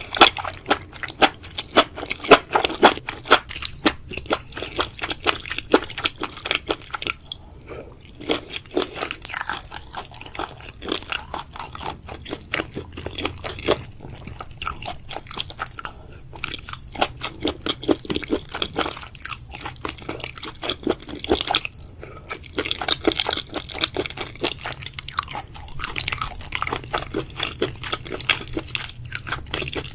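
Close-miked chewing and crunching of food: a continuous run of wet crunches, bites and mouth clicks.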